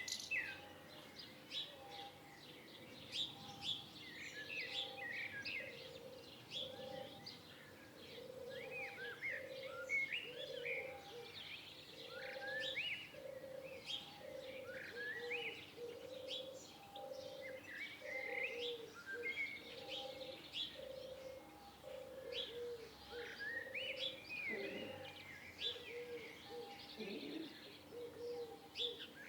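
Several songbirds chirping and singing in quick, overlapping calls, with a low note repeating a little over once a second underneath.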